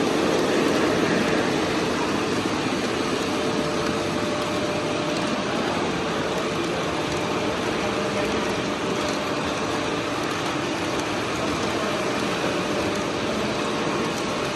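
O-gauge three-rail model trains running around a layout: a steady rumble of wheels on track, with a faint even motor hum.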